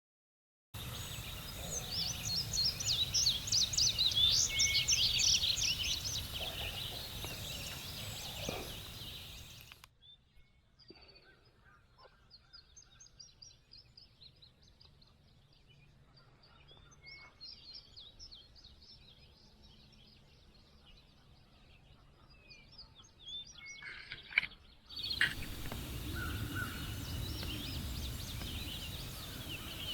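Wild birds singing and calling in a morning chorus, many short high chirps over outdoor background noise. The chorus is louder at first, drops abruptly to faint scattered chirps about ten seconds in, and comes back up abruptly near the end.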